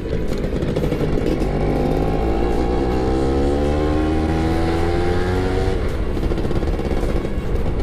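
Yamaha F1ZR's two-stroke single-cylinder engine under way, heard on board. Its pitch rises steadily for about four seconds as it accelerates, then drops back near the six-second mark.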